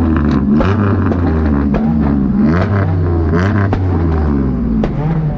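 Several car engines revving at once, their pitch rising and falling over and over.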